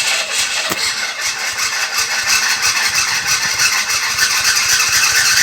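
Starter cranking the flooded, cold-soaked engine of a 1961 Bombardier narrow-gauge snow vehicle on a restart attempt. It is loud, with a fast even chatter, and cuts off suddenly near the end as the engine catches and settles to a quieter run.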